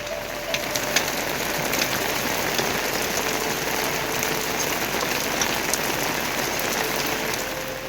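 Heavy rain falling steadily: a constant hiss of rain on surfaces with scattered sharper drops ticking through it.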